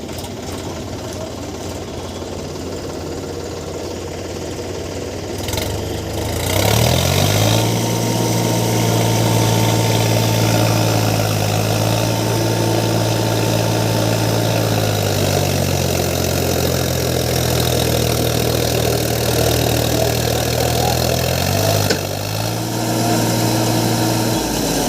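Tractor's diesel engine working hard under load while towing a stuck truck. It runs low and steady at first, revs up about six seconds in and holds there, eases slightly for a moment, then drops and revs up again near the end.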